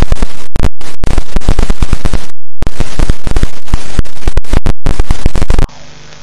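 Very loud, clipped crackling noise full of abrupt cut-outs. It drops suddenly, near the end, to a quieter hiss with faint sliding tones.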